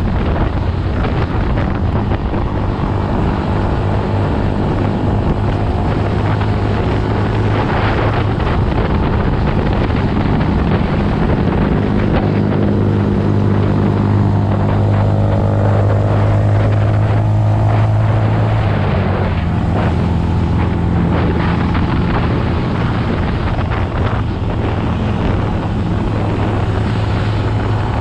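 Dirt bike engine running steadily while riding, with wind buffeting the microphone; the engine note shifts a couple of times around the middle.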